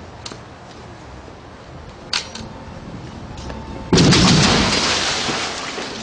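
Special-effects house explosion set off by dust mortars: a few sharp cracks, then about four seconds in a sudden loud blast that dies away over a couple of seconds.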